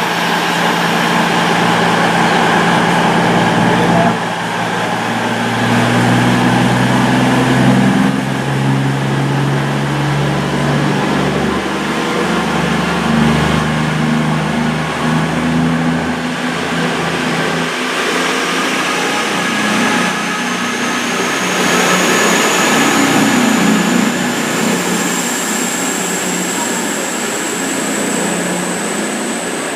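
Class 221 Super Voyager diesel-electric unit departing under power: its underfloor diesel engines run hard with engine notes that shift as it pulls away. In the second half a high whine rises slowly in pitch as the train gathers speed.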